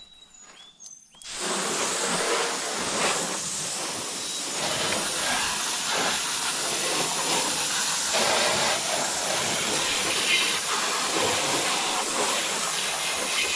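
Water spraying from a hose nozzle onto a car's hood and front bumper, rinsing off soap: a steady hiss of spray starting about a second in.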